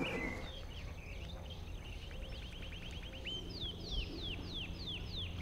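Birdsong: a fast trill of short high notes, then a series of about six sharp, falling whistled notes, over a faint steady low hum.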